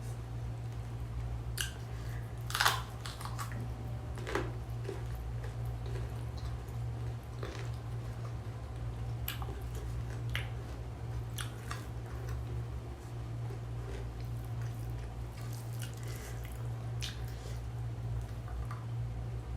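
Close-up eating sounds: chewing and mouth smacks on mixed rice and meat, with scattered short clicks, the sharpest about two and a half seconds in. A steady low hum runs underneath.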